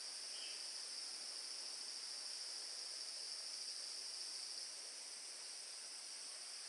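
Steady high-pitched chorus of forest insects, a continuous shrill drone that eases slightly about two-thirds of the way through.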